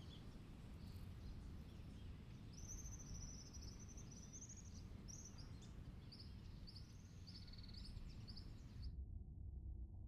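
Faint outdoor ambience: a low steady rumble, with a small bird chirping in quick repeated high phrases for several seconds. The high sounds cut off abruptly near the end.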